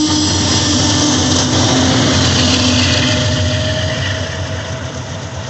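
Train rolling past on steel rails, wheels running with a thin high squeal over a low rumble, getting quieter near the end.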